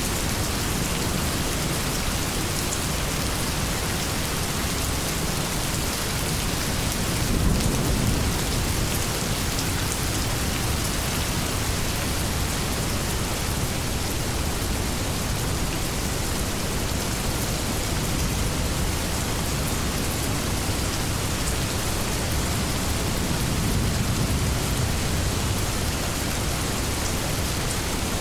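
Steady heavy rain falling, with low thunder rumbling in the distance, once about seven seconds in and more faintly near the end.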